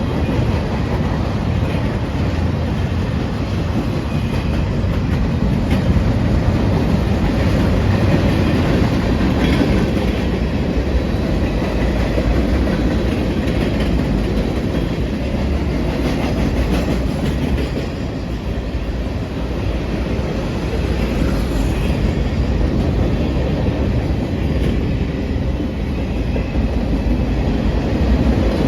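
Manifest freight train rolling past: a steady rumble of cars with wheels clicking over the rail joints.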